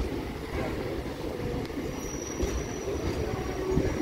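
Suburban electric local train (EMU) running on the rails, a steady rumble of wheels and carriage heard from inside the coach by the open side. About halfway through a faint, thin, high-pitched wheel squeal joins in.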